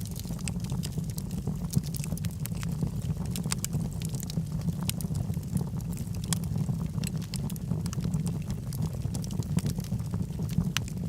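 Wood logs burning in a fireplace, with frequent irregular crackles and small pops over a low, steady rumble of the fire.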